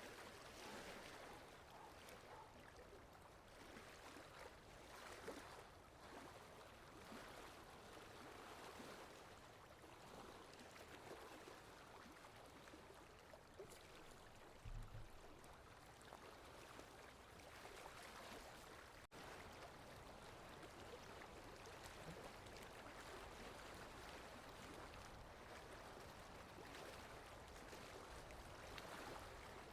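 Faint water lapping with wind: a soft, uneven wash that swells and eases every second or two, with one brief low bump about halfway through.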